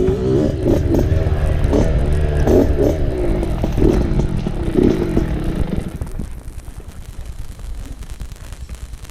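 Dirt bike engine revving up and down in quick, repeated rises and falls while riding, then dropping to a much quieter, rough low rumble about six seconds in.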